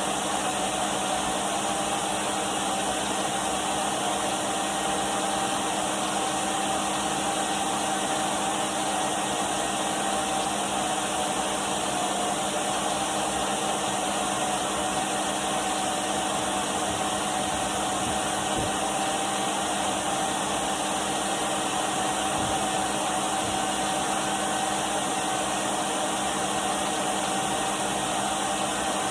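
Numatic Henry cylinder vacuum cleaner running steadily: an even rush of air with a steady whine and a low motor hum.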